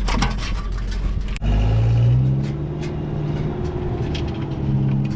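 Engine running steadily. It cuts out for an instant about a second and a half in, then picks up and rises in pitch, with knocks and clatter before the dip.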